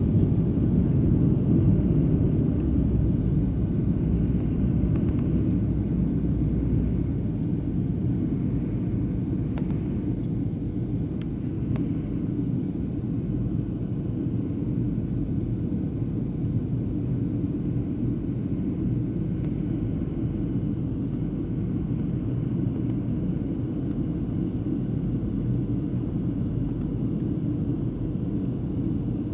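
Steady low rumble of an airliner's engines and airflow heard inside the passenger cabin in flight, easing slightly in loudness over the first several seconds.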